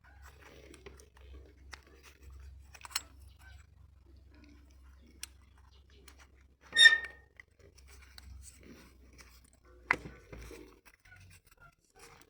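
Scattered clicks and knocks of metal parts and hand tools being handled, with one loud ringing clink about seven seconds in and a sharp click near ten seconds, over a faint low hum.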